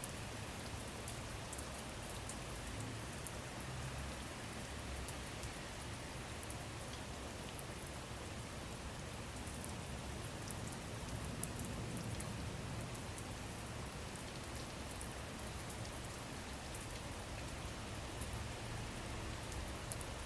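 Steady rain falling, a constant hiss with many small drop ticks on a surface.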